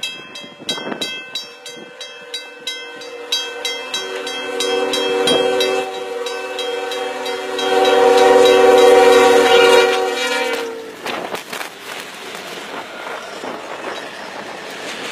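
A train's air horn sounds one long chord-like blast from about four seconds in, growing louder and cutting off after about seven seconds. Before it there is a rapid, regular ringing that fades out. As the horn stops, a loud rushing noise with scattered knocks follows: the train ploughing into snow, its wheels clattering.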